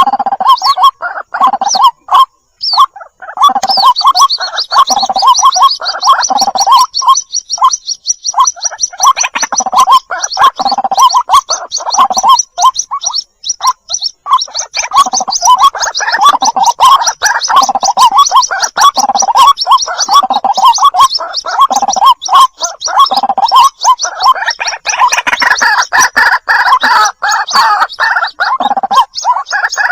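White-breasted waterhen calls from a lure recording of chicks calling for the parent: fast repeated notes with a low pulse under them. A high, rapid chattering trill runs over them from a few seconds in until near the end.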